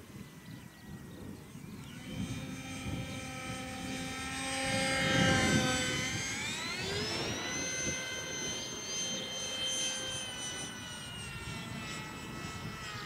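Electric ducted fan of a radio-controlled Dolphin model jet whining in flight, loudest about five seconds in, its pitch rising sharply about six seconds in and then holding high. Wind buffets the microphone underneath.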